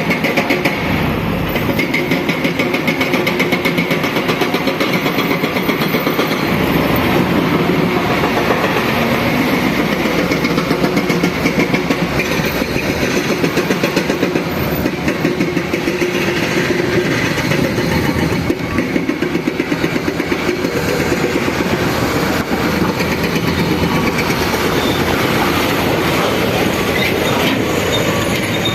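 Heavy diesel machinery running steadily with a rapid, even pulsing clatter.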